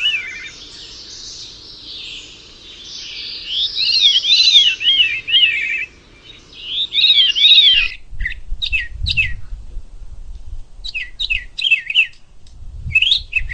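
Birds calling: runs of quick rising-and-falling whistled notes, then from about eight seconds in, short separate downward chirps, with a low rumble beneath them at times.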